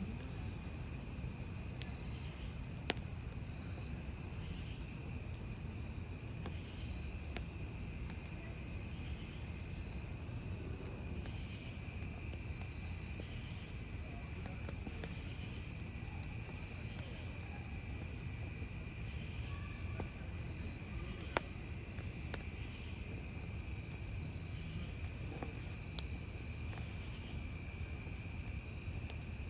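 Crickets chirping steadily over a wood campfire burning with a low rush, with an occasional sharp pop from the burning logs, the loudest about three seconds in and again about 21 seconds in.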